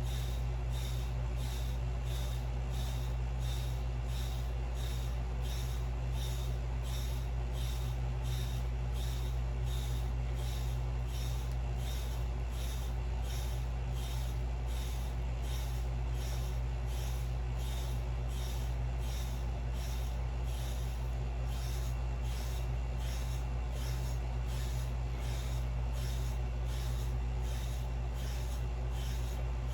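Hairbrush strokes through short 360-waves hair in a regular rhythm, a little under two strokes a second, over a steady low hum. It is a light brushing session to lift the hair after it was tied down under a durag.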